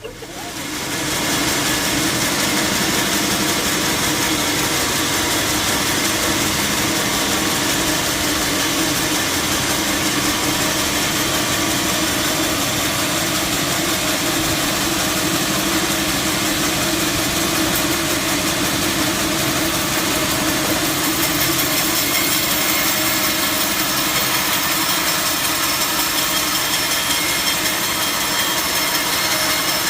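Sawmill machinery running steadily and loudly, a dense, even machine noise that comes up over the first second and then holds.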